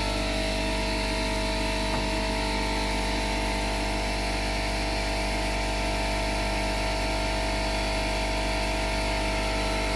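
Steady machine hum: a motor running evenly, with several fixed tones over a low drone and no change in speed.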